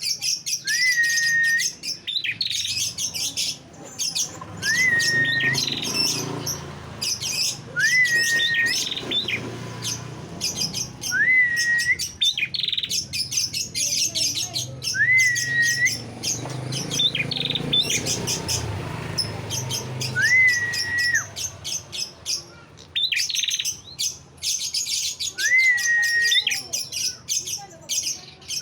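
Prinia (prenjak) song, as used for a bird-lure recording: bursts of rapid, dry ticking trills alternate with a short whistle that slurs up and then holds level. The whistle comes back every three to five seconds.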